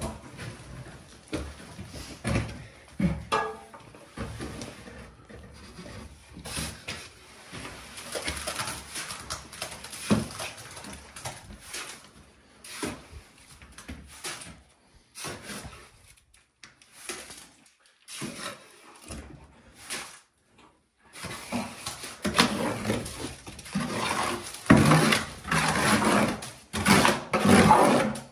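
Irregular scraping and short knocks of hand-tool work on building materials, with denser, louder rasping scrapes in the last several seconds.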